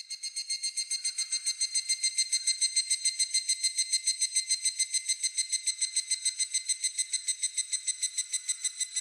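Higurashi (evening cicada) calling: a rapid, ringing trill of about eight or nine pulses a second, swelling in at the start, holding steady, and beginning to fade near the end.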